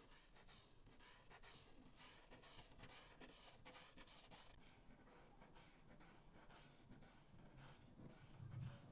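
Alcohol marker tip scratching across paper in short, quick, repeated colouring strokes, faint throughout, with a soft low bump near the end.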